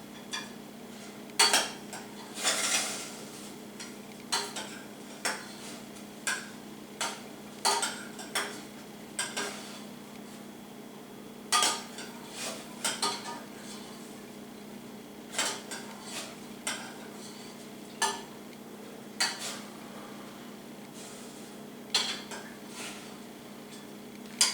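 Metal utensil clinking and knocking against a cooking pot in short, irregular strokes, roughly one a second, as shrimp are stirred and handled in boiling water.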